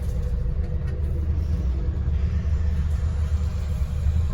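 Scania N94UD Omnidekka double-decker bus on the move, heard from inside: a steady low rumble of engine and road, with a faint steady whine above it.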